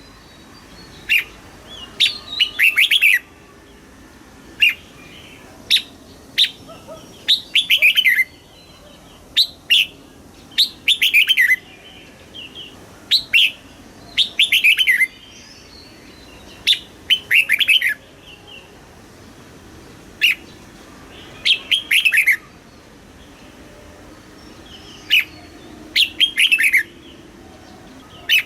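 Red-whiskered bulbul singing: short bright phrases of quick notes falling in pitch, with single short chips between them, repeated every second or two.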